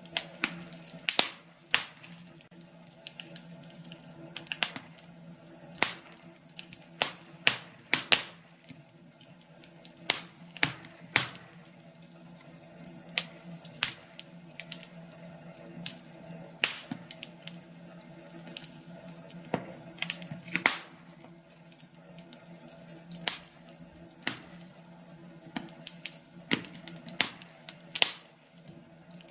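Wood fire crackling: sharp, irregular pops and snaps from burning logs over a faint, steady background hum.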